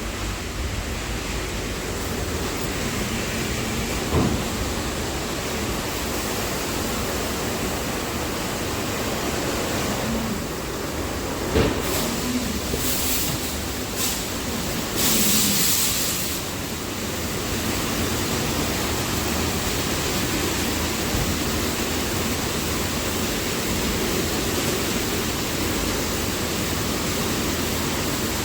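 Automatic car wash running: a steady rush of water spray on the car, with a few knocks and, about halfway through, a louder hiss lasting a second or two.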